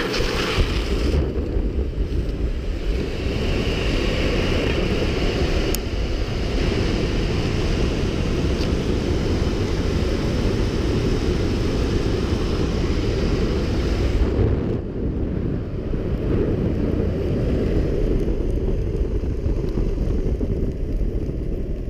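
Steady rush of wind over the microphone with a low rolling rumble, as from a longboard moving at speed on asphalt. The higher hiss thins out about 15 seconds in.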